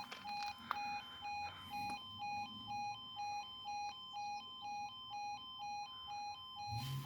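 Level crossing warning alarm sounding while the barriers are down: an electronic two-tone yodel stepping between two pitches about twice a second.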